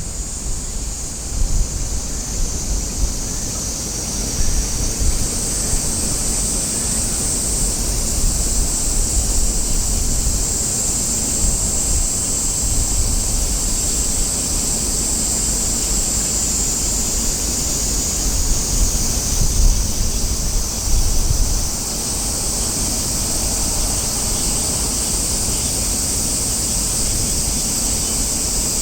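Wind buffeting the microphone in gusts, a low rumble that eases about three-quarters of the way through, over a steady high-pitched hiss.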